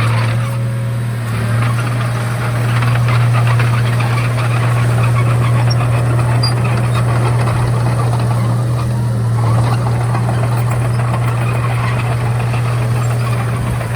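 Komatsu D31A crawler bulldozer's diesel engine running steadily under work, with a dense rattling clatter over its steady low hum.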